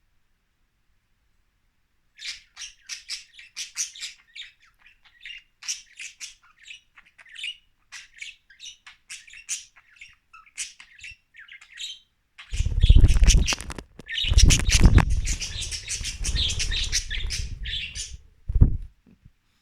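Budgies chattering with quick, high chirps and squawks. From about twelve seconds in, loud rustling noise close to the microphone mixes with the chirping for several seconds, with one more short burst near the end.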